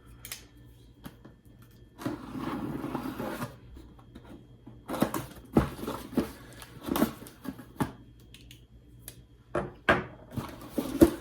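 A subscription tackle box being opened and its packaging handled by hand. There are scattered clicks and knocks, a stretch of rustling about two seconds in, and a run of louder knocks and rustles in the second half.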